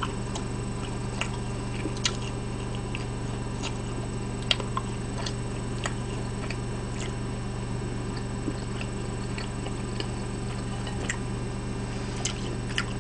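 A person eating pizza close to the microphone: scattered soft clicks and smacks of chewing, irregular and roughly one a second, over a steady low hum.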